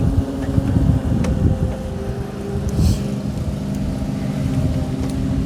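An engine idling steadily with a low, even hum, with a couple of light clicks over it.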